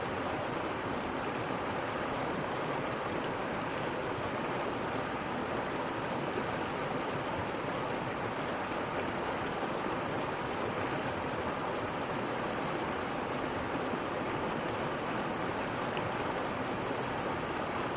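Waterfall: water falling and rushing in a steady, unbroken splashing rush.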